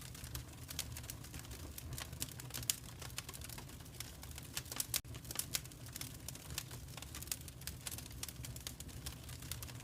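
Wood fire crackling in a fireplace: a dense, irregular patter of small pops over a low steady rumble, with a couple of louder snaps about three and five seconds in.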